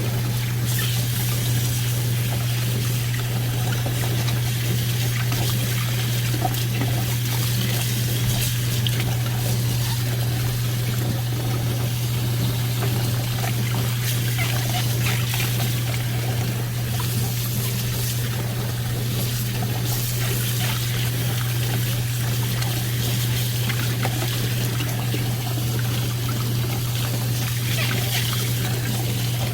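Water running steadily from a kitchen tap, with a constant low hum underneath.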